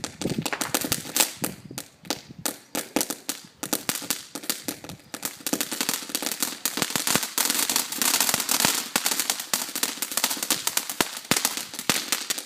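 Firework going off in a long, rapid string of sharp crackling pops, many a second, then cutting off abruptly.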